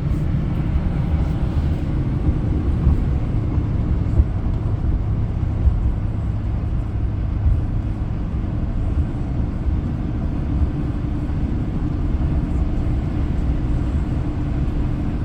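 Steady cabin noise of a car being driven: engine and tyre rumble on the road, heard from inside the vehicle.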